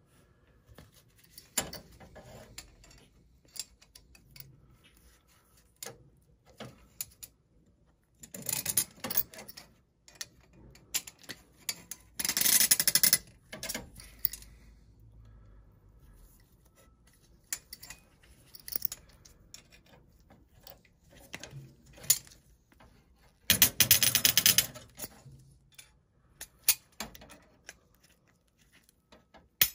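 Hand tools and small metal furnace parts being handled: scattered metallic clicks and clinks, with three longer runs of dense rapid clicking, the loudest about twelve seconds in.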